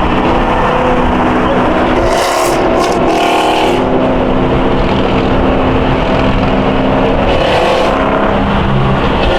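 Muscle car engine running at steady cruise with road noise, heard while driving in a convoy, with two brief rushes of noise about two and seven seconds in.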